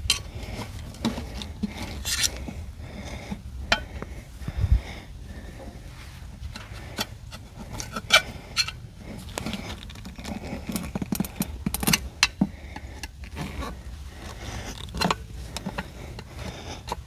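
Irregular metal clinks, knocks and scrapes of hand work on a tractor wheel, as the tire is worked onto its steel rim, with a dull thump about five seconds in.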